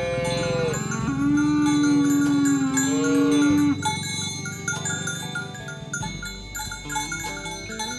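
A cow mooing: a short call at the start, then one long moo from about a second in. Light chiming background music follows it.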